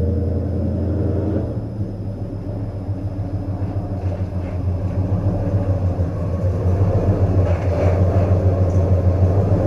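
1988 Chevrolet C1500 pickup's engine running with a steady low rumble, growing a little louder and rougher in the last few seconds.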